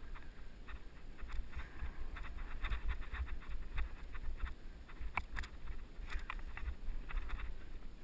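Mountain bike rolling over a rough dirt trail, its frame and chain giving off many irregular clicks and rattles, over a steady low rumble of wind buffeting the helmet-mounted camera's microphone.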